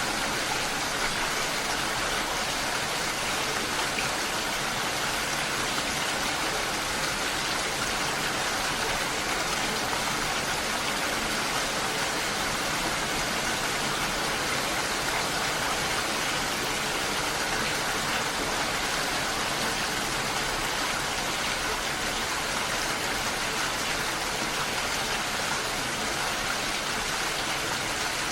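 Steady, even rushing noise of water, unbroken and unchanging throughout.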